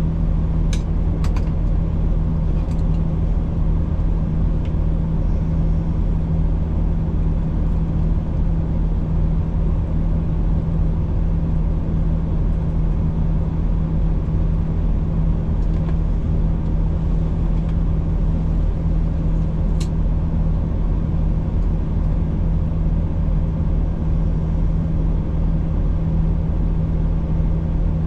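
Road-train prime mover's diesel engine idling steadily, with a few light clicks near the start and another about two-thirds of the way through.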